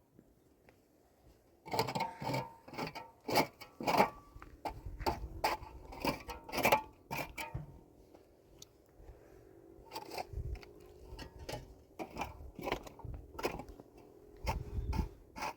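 Irregular clicks, knocks and scrapes of hands working with materials, starting about two seconds in and coming thickest over the next few seconds.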